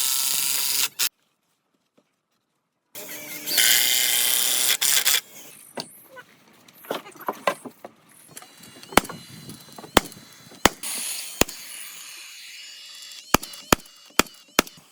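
A power tool working wood in two short loud bursts, with a sudden cut to silence between them; then a run of sharp separate knocks, as of wooden parts being tapped or fitted together.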